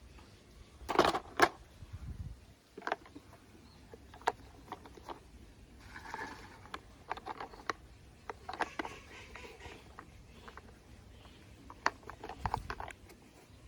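Irregular small clicks and knocks, as of objects being handled and set down, with the loudest knocks about a second in and another cluster near the end.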